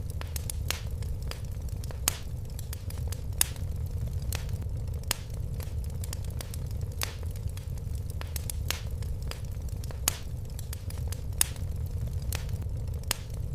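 Fire crackling, with irregular sharp pops over a steady low rumble; a few of the pops are louder.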